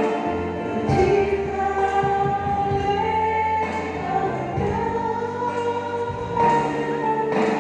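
A choir singing a hymn-like song with held notes, accompanied by music.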